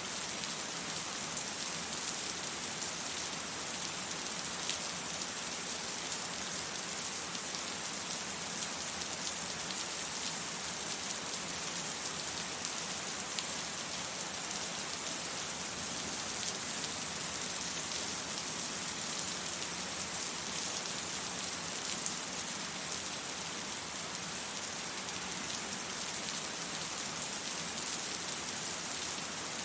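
Steady rain falling on hard surfaces, an even hiss with scattered drop ticks and no thunder.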